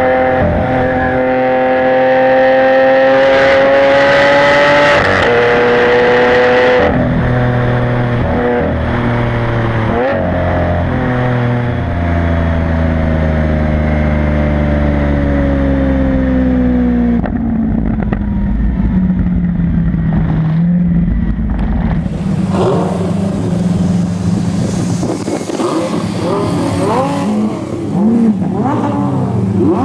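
Lamborghini Aventador LP700-4's V12 with factory racing exhaust, accelerating hard: the pitch climbs, drops at a gear change about seven seconds in, and climbs again. Past the middle it eases to a lower, steadier note, and a rushing noise joins it in the last third.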